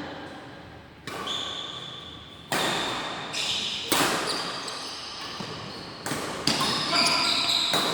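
Badminton rackets striking a shuttlecock in a rally: sharp smacks about every one and a half seconds, the last two close together, each echoing in a large hall.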